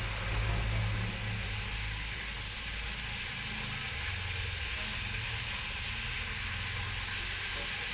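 Liver sizzling steadily as it fries in hot oil in a pan, over a low steady hum.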